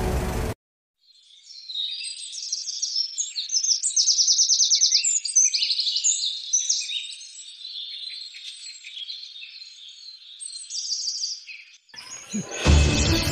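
Songbirds chirping and singing, with several quick trills. A music track stops about half a second in, and music comes back in near the end.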